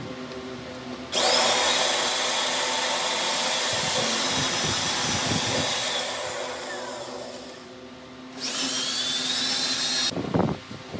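A high-speed power tool starts with a rising whine about a second in, runs steadily for several seconds, then winds down with falling pitch. It is switched on again briefly near the end and cuts off suddenly. A low steady hum runs underneath.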